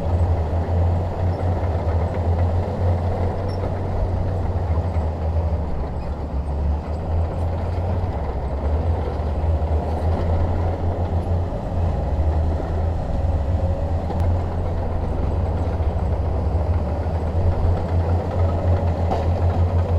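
Shantui DH17 bulldozer's diesel engine running steadily with a deep, low drone.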